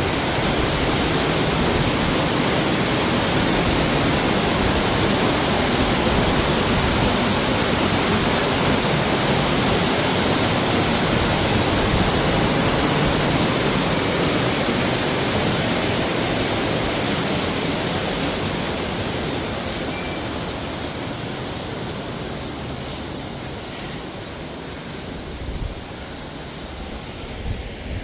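Rushing water of a waterfall: a loud, steady roar that grows fainter from about two-thirds of the way through.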